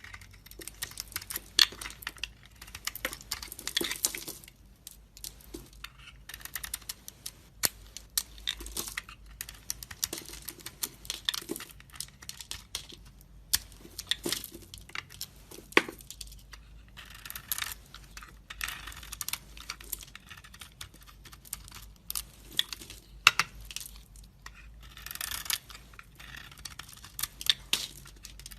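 A knife carving into dry bar soap: irregular crisp scrapes and crackling, with many sharp clicks as pieces break away.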